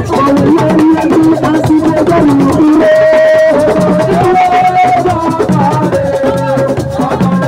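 Assiko band playing live: a sung melody with long held notes over drums and shakers in a steady beat.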